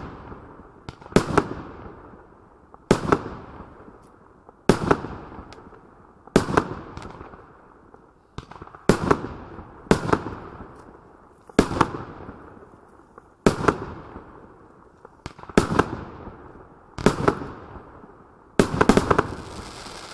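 A 37-shot aerial fireworks cake firing: sharp shell bursts about every two seconds, each trailing off in a fading hiss. Near the end several bangs come in quick succession.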